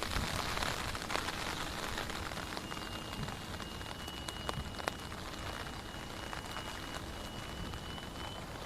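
Steady rain falling, with many scattered sharper drop impacts. A thin, steady high tone joins in about three seconds in.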